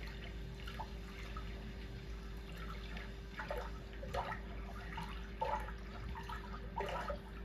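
Underwater coral-reef soundscape played through a TV speaker: a steady watery hush with irregular short bubbling, dripping blips every second or so, over a faint steady hum.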